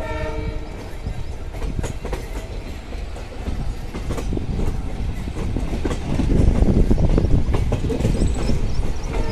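Passenger train running at speed, heard from the coach side: a steady rumble and rush of air with wheels clicking over the rail joints, growing louder about six seconds in. A brief pitched tone sounds at the very start.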